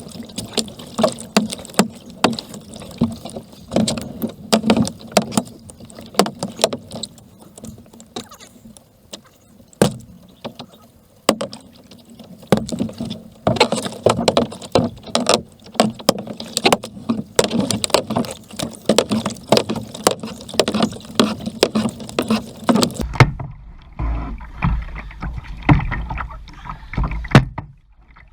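Kayak paddling: paddle strokes splashing in the water, with irregular short knocks and clicks over a steady rush of water. About three quarters of the way through, the sound turns duller, with a low rumble.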